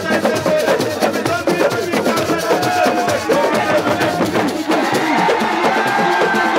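Crowd celebration music: fast, dense hand drumming with many voices singing and shouting over it, and a few held notes near the end.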